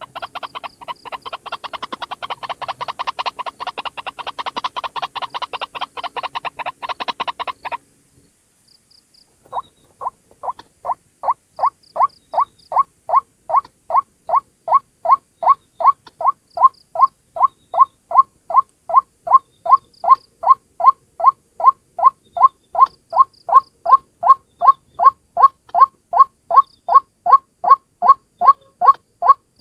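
White-breasted waterhen calling: a dense run of rapid, overlapping croaking calls that cuts off about eight seconds in, then after a short pause a steady, monotonous series of short 'kwak' notes, about two and a half a second, growing louder over the first few seconds.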